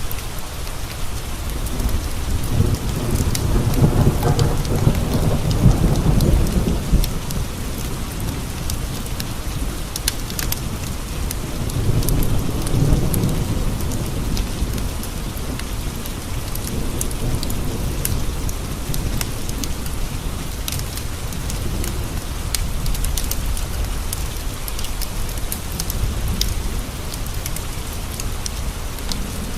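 Steady heavy rain pattering, with thunder rolling in a low rumble twice, swelling about two seconds in and again around twelve seconds. Sharp scattered crackles of a wood fire run through it.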